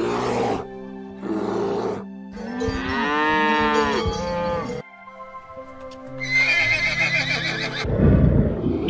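Animal calls cut one after another over background music: a long moo from a cow in the middle, its pitch rising and then falling, and a low growl from a tiger starting near the end.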